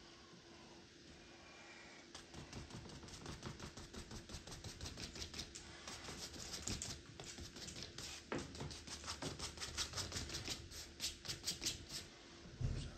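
A paintbrush working paint into canvas in a fast, even run of short scrubbing strokes, about five a second. It starts about two seconds in and stops shortly before the end.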